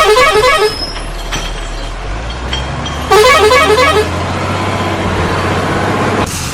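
Vehicle horn tooting a quick run of short notes twice, about three seconds apart, over a steady low engine drone.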